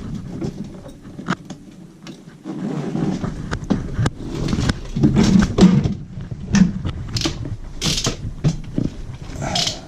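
Handling noise: irregular clicks, knocks and rustling as tools and furnace parts are handled and moved, with a denser run of knocks in the second half.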